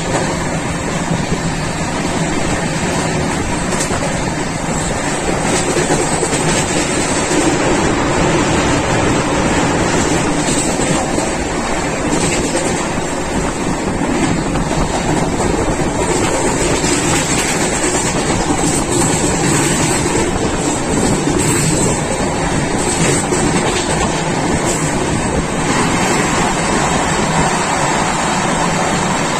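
Running noise of a moving train heard from on board: a steady, even rush and rumble of wheels on rail and passing air, with no pause or change.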